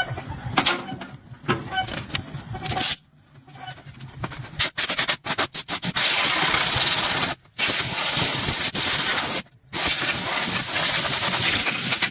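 Light clicks and knocks, then a hissing spray: a few quick short bursts, followed by long continuous blasts broken by two brief pauses.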